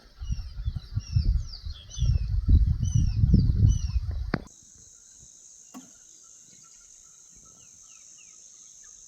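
Short, high, downward-sliding bird whistles repeat about twice a second over a loud, irregular low rumble. Both cut off abruptly about four and a half seconds in. A faint, steady, high insect drone follows, with a few faint bird chirps.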